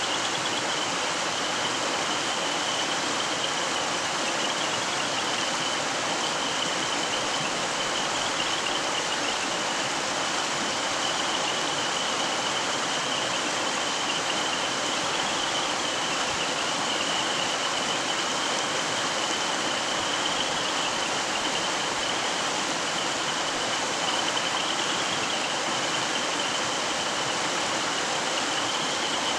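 Mountain stream flowing and rippling, a steady rush of water. A steady high-pitched tone runs through it throughout.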